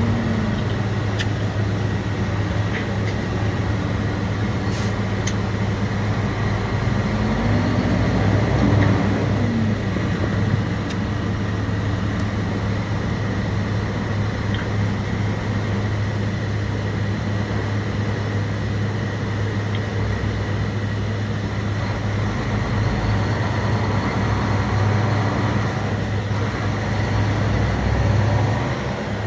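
Semi truck's diesel engine running steadily, with road noise, heard from inside the cab as the truck drives on.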